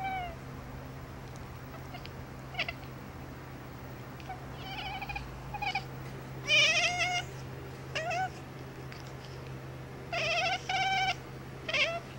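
Domestic cat meowing repeatedly: about eight short, high meows with pauses between, some in quick pairs, the loudest about halfway through.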